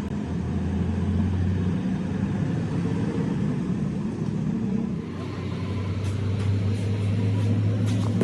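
Truck engine running steadily with a low hum. The hum shifts slightly higher about five seconds in, and a few light knocks come near the end.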